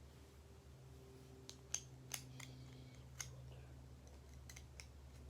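Faint, scattered sharp metallic clicks, about eight of them, as small butterfly-knife parts and bolts are handled and fitted together to check whether the bolts are long enough. A steady low electrical hum runs underneath.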